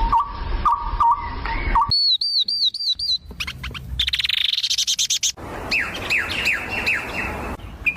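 Birds calling in a string of short, abruptly cut bits: first a repeated low whistled note, then a quick run of high chirps, and later a series of falling chirps.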